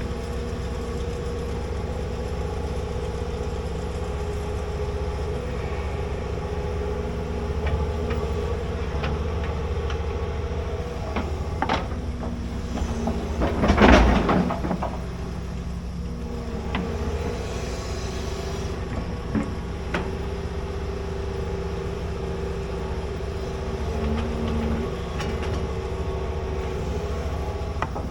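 Large hydraulic excavator's diesel engine running steadily at work, with a few sharp knocks and a loud burst of noise lasting about a second near the middle.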